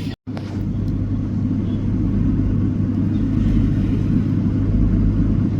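Train running, heard from inside the carriage: a steady low rumble with an even hum beneath it, growing slowly louder.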